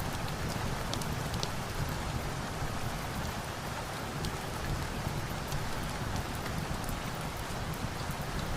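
Steady rain falling, an even hiss with a low rumble beneath and scattered sharp little ticks of drops.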